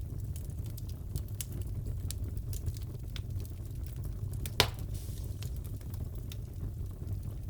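Wood fire crackling in a fireplace: a steady low rumble of flames with scattered sharp crackles, and one loud pop about halfway through.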